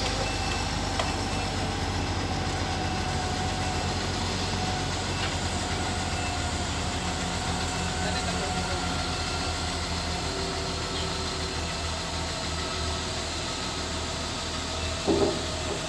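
Scania G 460 truck's diesel engine idling steadily with a low, even pulsing rumble. A brief louder sound cuts in about a second before the end.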